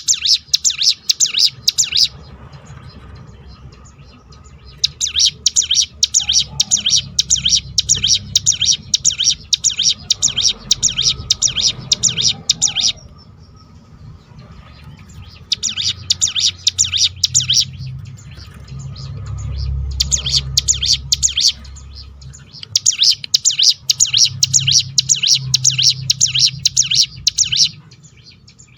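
Hill prinia (ciblek gunung) singing its rapid rolling 'tembakan' song: very fast, dense, high trills in five bouts of a few seconds each, with short pauses between them. A faint low rumble runs underneath.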